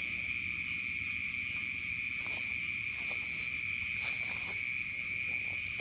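Steady chorus of crickets or similar insects, one continuous high-pitched trill with fainter higher layers. A few faint clicks come about two seconds in and again around four seconds.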